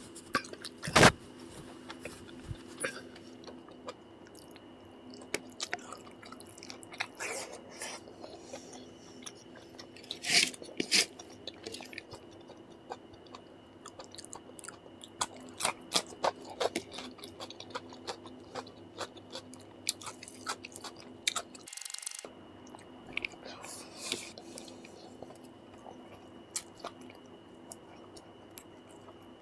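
Close-miked eating sounds of a man eating rice and curry by hand: wet chewing and lip smacks in irregular clicks, with crunchy bites of raw cucumber. A single loud burst about a second in is the loudest sound.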